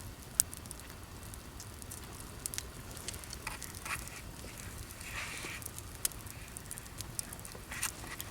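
Wood campfire crackling, with scattered sharp pops; the loudest is a single snap just under half a second in.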